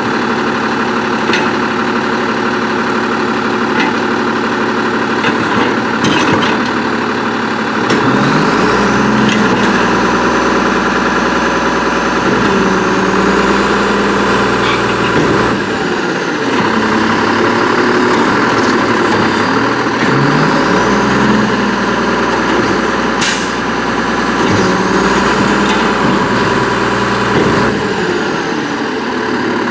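Garbage truck with an Amrep MSL side-loader body idling, then revving up three times as its hydraulics cycle, each rev carrying a rising and falling hydraulic whine. Scattered clanks and knocks, and a short sharp air hiss about three quarters of the way through.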